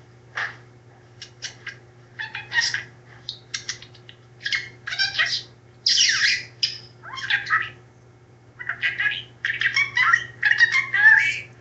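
Pet parrot squawking in a run of short calls, with a brief lull about eight seconds in before a faster, denser run. A steady low hum sits underneath.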